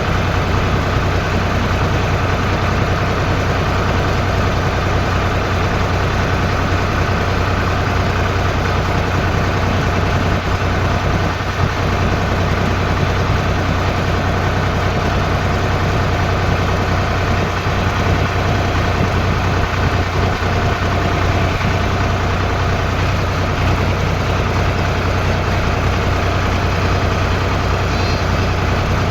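Tractor engine running steadily at an even speed, a constant low drone with no change in pitch.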